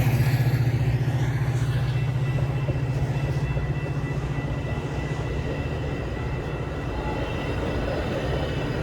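Metra commuter train going by, the low throb of its diesel locomotive engine fading over the first few seconds. From about two seconds in, two thin steady high tones come in.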